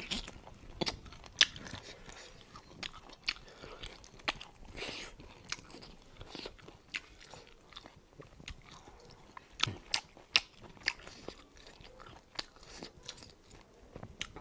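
Eating sounds from a lapel mic close to the mouth: biting and chewing cooked duck meat off the bone. Irregular sharp crunches and wet mouth clicks come every second or so, the loudest at about a second and a half and about ten seconds in.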